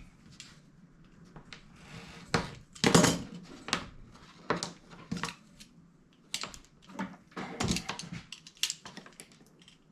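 Irregular clicks, taps and clatters of small hard parts and tools being handled, with the loudest knock about three seconds in.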